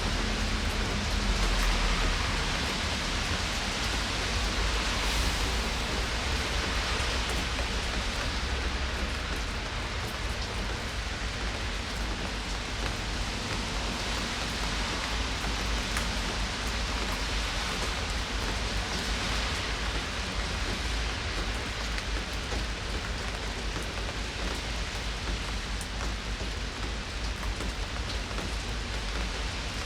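Steady rain falling, an even hiss of rainfall with occasional single drops ticking on surfaces.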